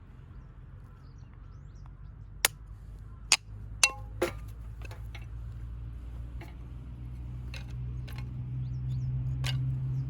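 A handful of sharp knocks and clinks, one with a brief metallic ring, then lighter ticks, over a low steady hum that grows louder toward the end.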